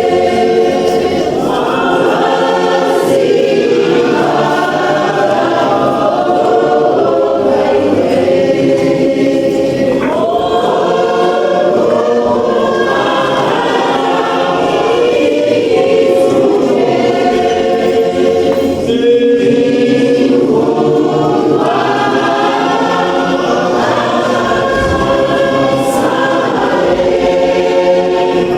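A choir singing a gospel song in several voice parts, in phrases of a few seconds each.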